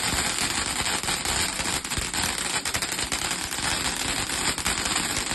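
A firework barrage (a cake) going off in a dense, rapid crackle of many small bangs with no break.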